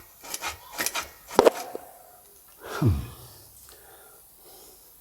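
Several sharp metallic clicks and knocks from a wrench and socket working on a seized oxygen sensor. About three seconds in comes one short, falling grunt of effort.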